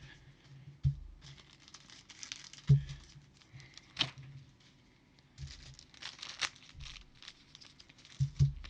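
Plastic card sleeves crinkling and rustling as trading cards are handled and sleeved, with a few dull knocks on the table and a sharp click about four seconds in.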